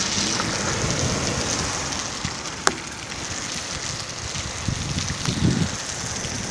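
Steady rain falling, a constant hiss, with one sharp tick about two and a half seconds in and a brief low rumble near the end.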